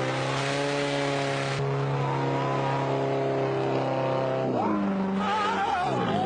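A car engine running at steady, high revs, its pitch shifting about four and a half seconds in. A wavering, siren-like tone joins near the end.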